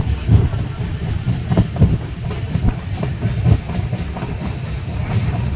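Indian Railways passenger train running, heard from aboard the moving coach: a steady low rumble of wheels on rails with irregular knocks.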